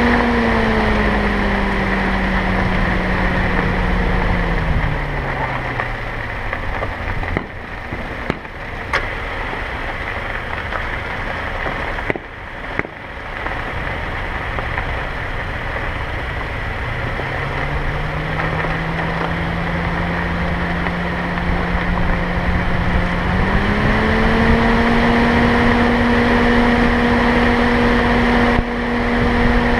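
A car driving: its engine note drops steadily over the first six seconds as it slows, runs low for about ten seconds with a few sharp clicks, then climbs again as it speeds up and holds steady from about twenty-four seconds in, over a constant hiss of road noise.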